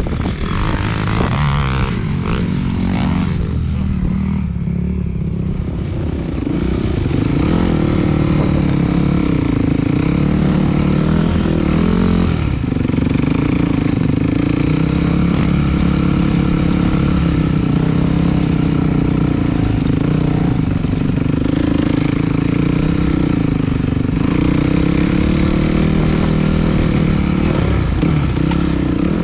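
Dirt bike engine running under way, its pitch rising and falling in waves as the throttle is opened and eased off, with rough noise during the first few seconds.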